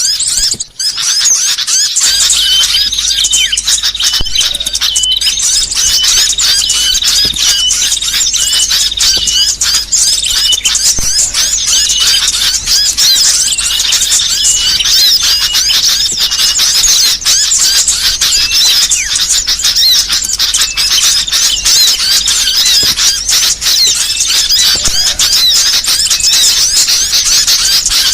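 Burcil birdsong-training recording: a dense, unbroken stream of high-pitched, squeaky chirps and trills, many overlapping. A low steady hum runs underneath from about two seconds in.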